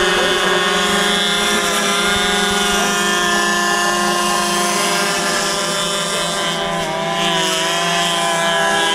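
In-line model engine of an RC airboat running with its air propeller, holding a steady speed; the pitch dips and comes back up about seven seconds in as the throttle is eased and reopened.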